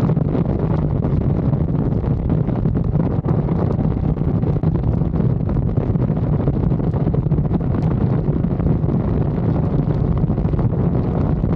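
Yamaha R6 inline-four sport bike engine running at a steady pitch while riding, with wind rushing over the microphone.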